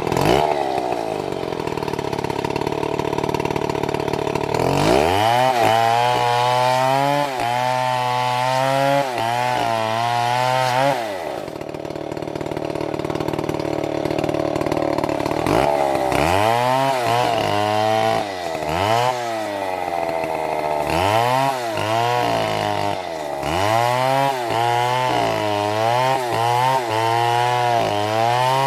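Two-stroke chainsaw running. It holds a steady note at first, then revs high from about five seconds in, with its pitch dipping and recovering again and again as it cuts wood. It drops to a lower steady note in the middle, then revs and dips repeatedly again.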